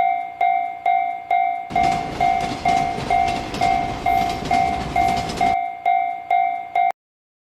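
Japanese level-crossing warning bell ringing "kan kan" at about two strikes a second. A train rushes through the crossing for about four seconds in the middle. The bell stops suddenly shortly before the end.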